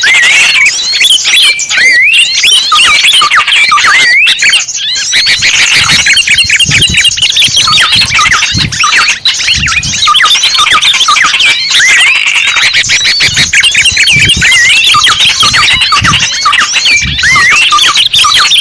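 Bird-lure recording of many small songbirds chirping and twittering at once: a dense, unbroken stream of quick high chirps, played loudly to draw small birds in.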